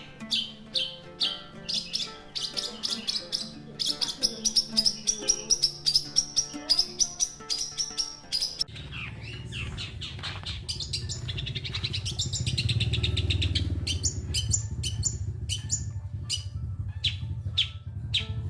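Long-tailed shrike (cendet) singing a fast run of sharp chirps and whistled notes, with background music under it. A low rumble joins about halfway through.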